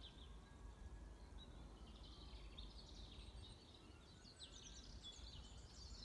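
Faint birdsong: several small birds chirping and trilling in short scattered phrases, over a low steady rumble.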